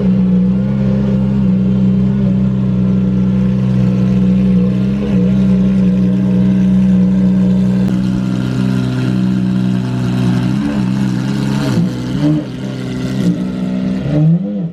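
Car engine running at a steady engine speed, holding one even note, then rising and falling briefly a few times near the end.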